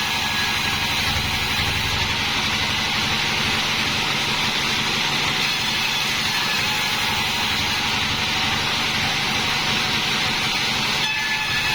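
Homemade band sawmill running steadily, a continuous machine noise with no break.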